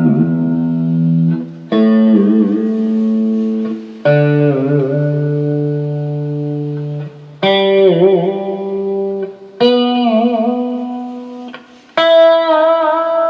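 1965 Fender Mustang electric guitar: a series of strummed chords, each left to ring for a couple of seconds, its pitch wobbled by the floating vibrato arm.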